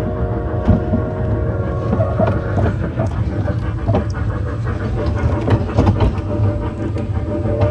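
Solar-powered ride-on zoo train running on blacktop, heard from aboard: a steady low rumble with a steady hum, and frequent small knocks and rattles from the cars.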